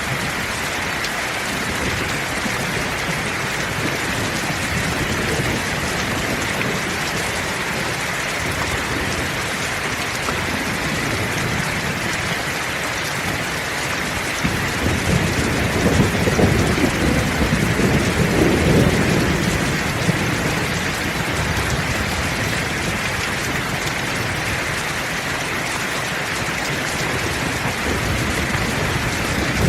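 Heavy rain falling steadily, with a rumble of thunder swelling up from about halfway through and fading a few seconds later.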